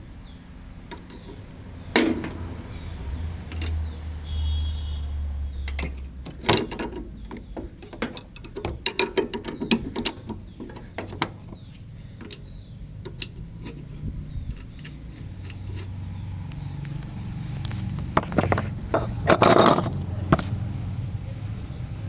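A spanner working on a vehicle's nuts and bolts, with irregular metallic clinks, knocks and rattles that come in clusters. A low steady hum runs underneath.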